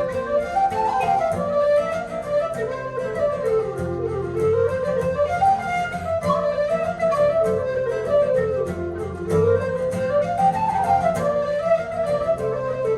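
Irish traditional tune played live by a small band: a flute-like wind instrument carries a quick, winding melody over plucked string accompaniment.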